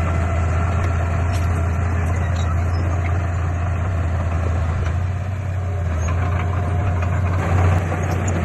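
Heavy diesel engine of earthmoving equipment running steadily with a low drone, easing slightly about two-thirds of the way through and swelling briefly near the end.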